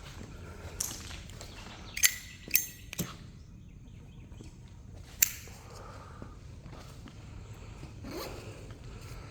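Cigarette lighter flicked several times to relight a cigarette: four sharp rasping strikes of the wheel, three close together about two to three seconds in and one more near the middle.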